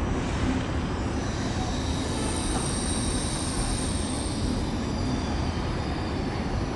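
Frecciargento tilting high-speed train rolling slowly into the platform with a steady low rumble, and a high squeal joining about two seconds in as it slows.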